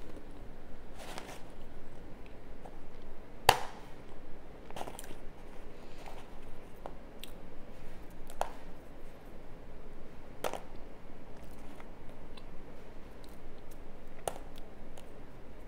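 A person biting and chewing pressure-cooked, oven-baked cornstarch chunks, with sharp crunches every second or few, the loudest about three and a half seconds in.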